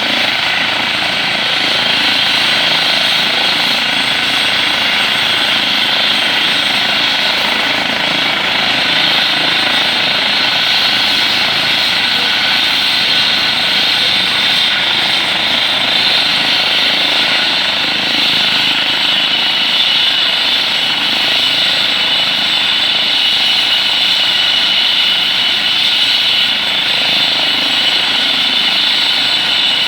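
Helicopter turbine engine and rotors running steadily on the ground during warm-up before take-off: a constant rushing noise with a steady high whine.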